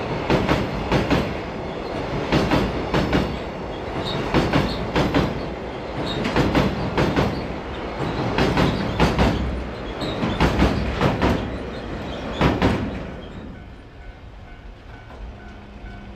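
Container flat wagons of a freight train rolling past on a steel girder bridge, wheels clacking over rail joints in a regular clickety-clack of paired clicks about every second and a half. The clatter stops about 13 seconds in as the last wagon goes by.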